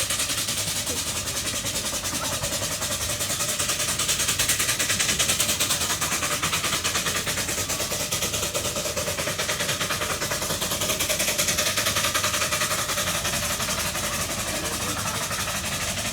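A vehicle engine running steadily, with a fast, even pulse and no breaks.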